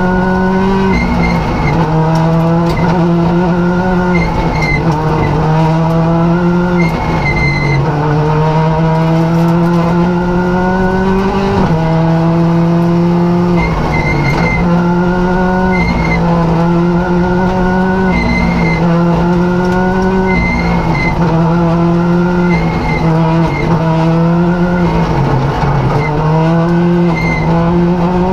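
Rally car engine heard from inside the cockpit at full pace, its revs climbing and dropping back again every second or two as the car is driven hard along a stage.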